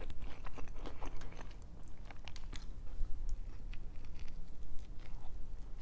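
Close-miked chewing of breakfast food: irregular small crunches and mouth clicks.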